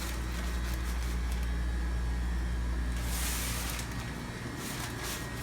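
Steady low mechanical hum, with a short burst of hiss about three seconds in.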